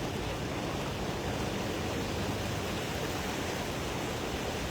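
Car driving through floodwater: a steady rushing wash of water against the tyres and underbody, with no breaks or hits.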